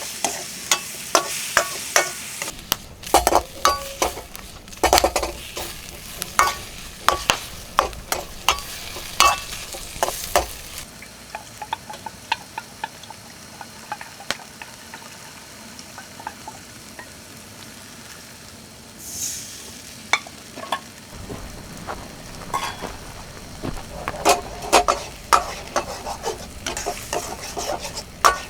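Stir-frying in a wok: a metal spatula clicks and scrapes against the pan while the food sizzles. The stirring eases off for about ten seconds midway, then resumes.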